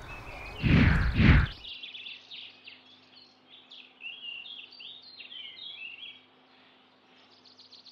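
Faint songbirds chirping and singing in quick, varied high phrases, over a faint steady hum. A brief, loud, dull burst of noise comes about a second in, before the birdsong.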